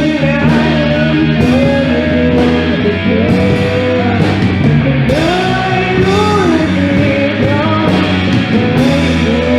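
Rock band music: a sung melody gliding over steady bass and guitar notes, with drum and cymbal hits keeping the beat.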